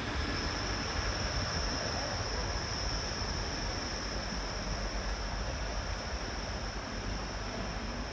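Diesel passenger trains running: a steady rumble with a steady high-pitched whine over it.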